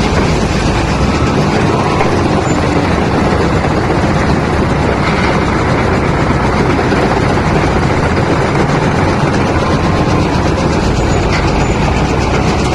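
Wheel loader's diesel engine running steadily, a loud, even mechanical rumble with no separate knocks.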